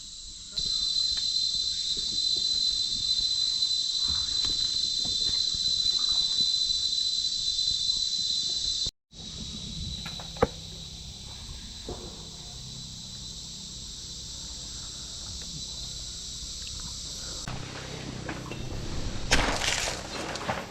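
Rainforest insects calling in a steady, high-pitched chorus. It cuts off sharply about nine seconds in and goes on fainter afterwards, with a sharp click about ten seconds in and a short rush of noise near the end.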